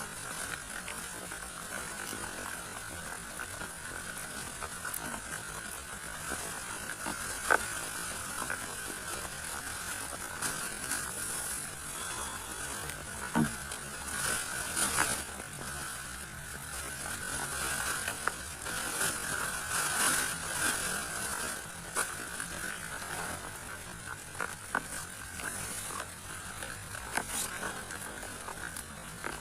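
A steady high buzzing drone with scattered sharp ticks and taps.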